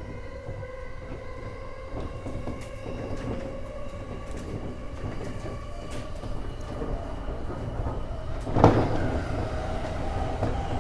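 E231 series electric commuter train running, heard from the front car: steady rumble under a whine of evenly spaced tones from the traction motors, with scattered short clicks from the wheels. One loud sudden thump comes about eight and a half seconds in.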